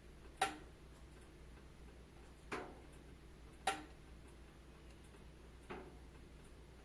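Wood fire crackling: four sharp pops at uneven intervals over a faint, steady low background.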